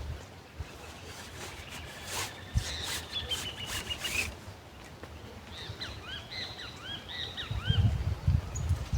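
Wild birds calling outdoors: a short falling run of notes, then a string of about eight quick arched chirps. Scattered clicks sound in the first half, and a low rumbling comes in near the end.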